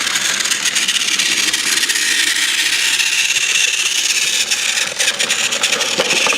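Battery-powered TrackMaster toy engine, Snow Clearing Hiro, running along plastic track: a steady whirring of its small motor and wheels, with a run of clicks near the end.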